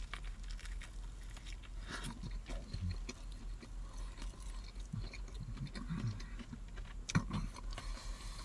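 A man chewing a bite of Nashville hot fried chicken sandwich, with soft, irregular crunching from the fried breading. A sharper crunch comes about seven seconds in.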